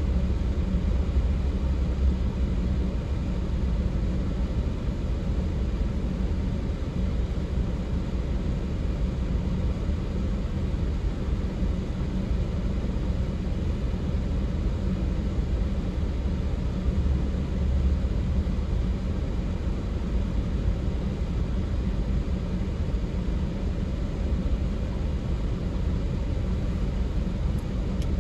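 Freight train cars rolling past in a steady low rumble, heard from inside a car.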